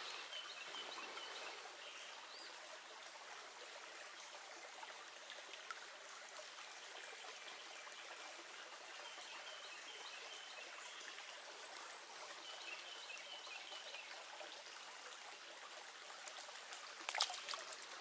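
Small creek's water running steadily in a faint, even trickle, with a faint high trill now and then and a few sharp clicks near the end.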